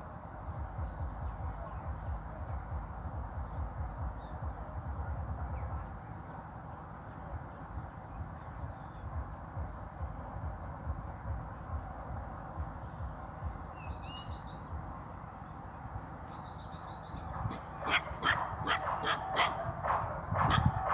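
Steady ambient outdoor noise, then a dog barking in quick repeated barks, about four a second, from a few seconds before the end.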